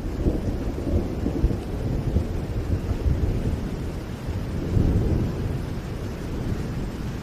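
Rain falling, with a low rolling rumble of thunder that swells a little past the middle and then slowly fades.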